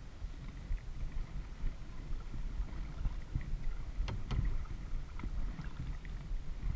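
Kayak paddling on a lake: small water splashes and drips from the paddle over a steady low rumble, with two sharp knocks in quick succession about four seconds in.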